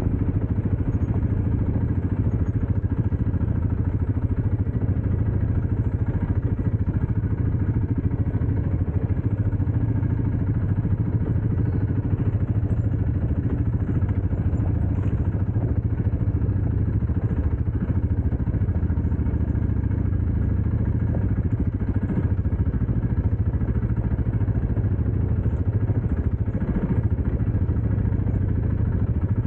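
Dirt bike engine running steadily at an even speed, with a low drone that holds unchanged.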